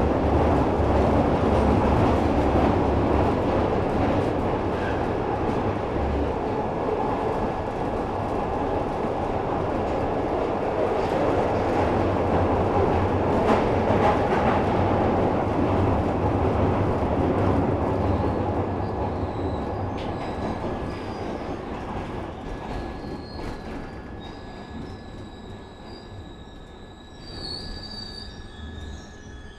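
Glasgow Subway train running through the tunnel: a loud, dense rumble with wheel squeal. About two thirds of the way in it slows, and the noise fades away as the train draws into the station, with faint high steady tones in the last few seconds.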